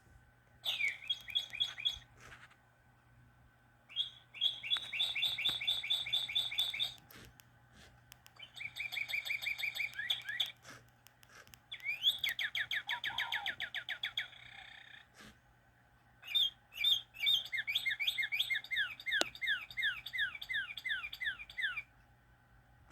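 Gemmy animated Holiday Cardinal toy playing its recorded bird chirps. There are five runs of rapid, evenly repeated chirps, each note sliding downward, with short pauses between runs; the last run is the longest.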